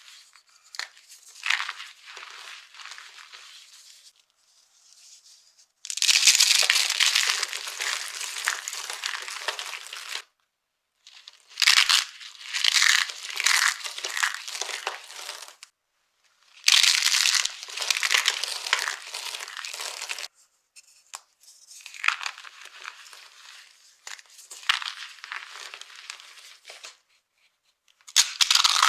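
Dry soap crunching and crackling as it is crushed and crumbled, heard close up. It comes in several separate bursts of a few seconds each, broken by sudden silent gaps.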